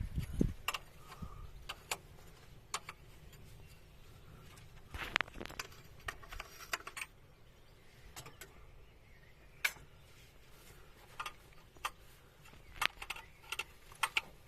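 Irregular light metallic clicks and clinks, scattered unevenly with small clusters around the middle and near the end, over a low steady background.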